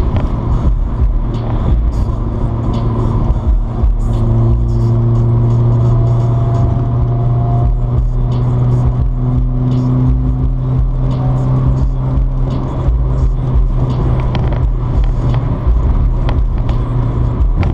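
Car engine running hard at freeway speed, heard from inside the cabin as a loud steady drone over tyre and road roar, its pitch creeping slowly upward partway through as the car pulls.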